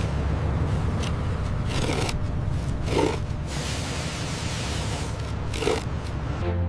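Steady rumbling noise with a few short scraping hits, the first about a second in and the last near the end.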